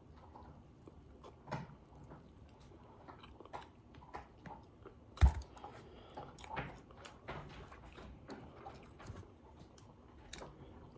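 Close-up chewing and biting of fried chicken and donut, with small wet mouth clicks and crunches of the chicken's breading. One sharp thump about five seconds in.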